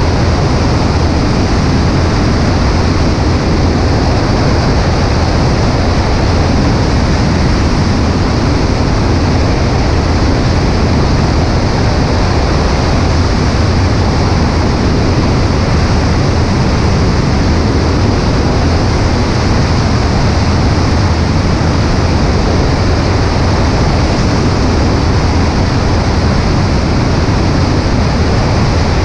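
Steady rush of wind over a wing-mounted microphone, mixed with the constant drone of a Cessna 140A's engine and propeller in cruise, strongest in the low end and without change.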